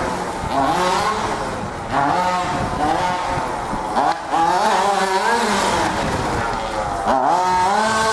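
Two-stroke petrol engine of a large-scale RC car revving up and down again and again, its pitch rising and falling every second or two.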